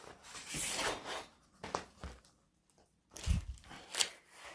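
Rustling and crinkling of a rolled diamond-painting canvas and its plastic packaging being handled, in short irregular bursts with a soft low thump about three seconds in.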